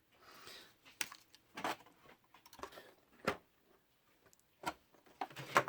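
Scattered small clicks and light knocks, about half a dozen, of a plastic 1/16-scale RC truck being handled and turned over by hand.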